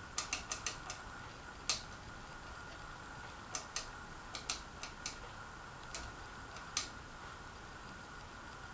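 Casablanca Panama 2 ceiling fan running with its flickering light: irregular sharp clicks, a quick run of them at the start and scattered ones after, over a faint steady high whine. The owner takes the flicker for a wiring or control-board issue.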